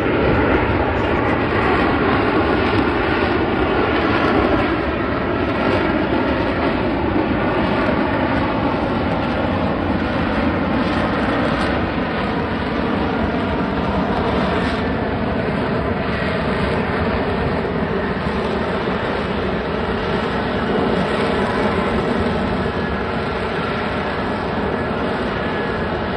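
F-35B's Pratt & Whitney F135 jet engine running at high power in STOVL hover mode: a loud, steady jet roar with a faint whining tone in it that drifts slowly lower.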